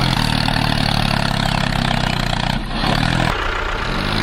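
A small engine running steadily at a low, even hum. The hum thins out for a moment about three seconds in, then picks up again.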